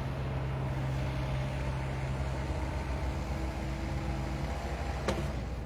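Construction machinery engine running steadily, its low hum dropping away about four and a half seconds in, with a single sharp knock just after.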